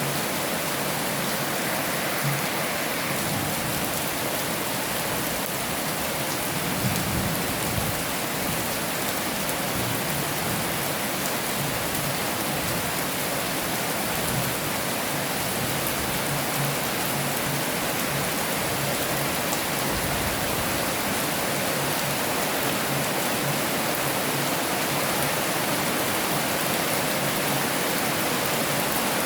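Heavy rain falling steadily, an even hiss with scattered heavier drops.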